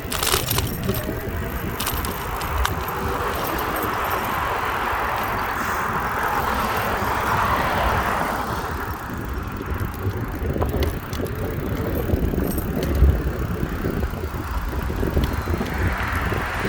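Riding a bicycle along a road: wind buffeting the microphone and the bike rattling over the surface, with a passing vehicle's noise swelling and fading about halfway through, and again faintly near the end.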